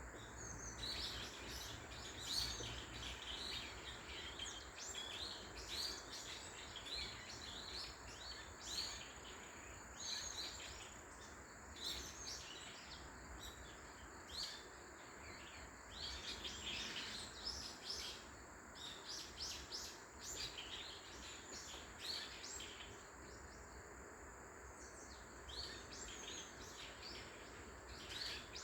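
Wild birds chirping and singing, many short high-pitched chirps following one another without a break, over a faint steady background hiss.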